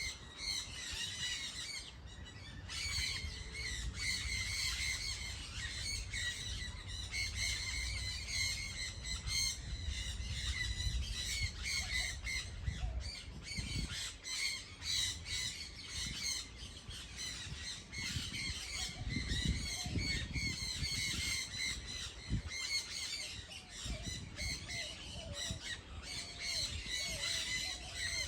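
A dense chorus of many birds calling at once, their short calls overlapping without pause, over a low rumble.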